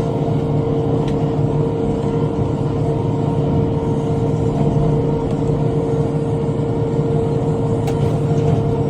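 Tractor engine running steadily while driving a rotary cutter (bush hog): an even drone with a constant tone over it.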